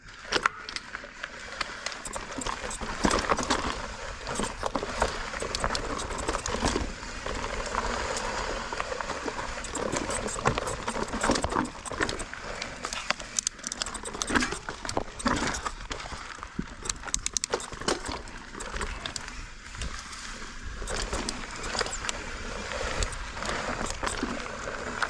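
Mountain bike riding over a rocky trail: tyre noise with frequent irregular clattering knocks and rattles as the bike hits rocks.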